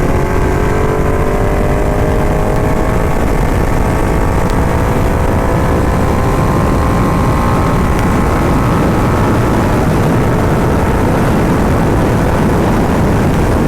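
Ducati motorcycle engine running under way, its pitch climbing slowly over the first several seconds as it accelerates, then carrying on steadily under a heavy low rush of wind and road noise.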